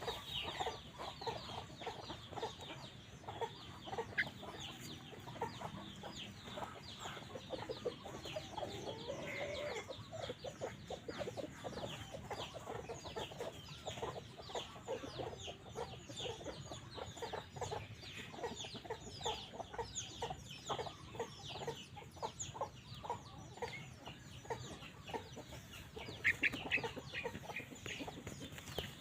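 Chicks peeping continuously, many short falling chirps, over lower clucking calls.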